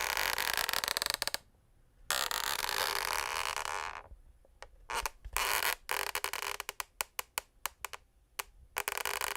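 Wooden parquet floor creaking: two long creaks, then a run of short cracks and ticks, with another long creak starting near the end.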